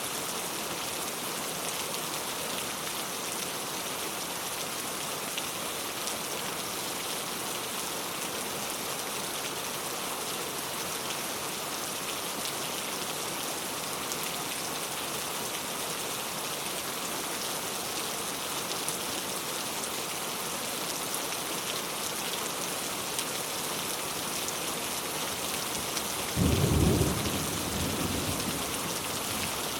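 Heavy rain falling steadily, with a short low rumble of thunder near the end.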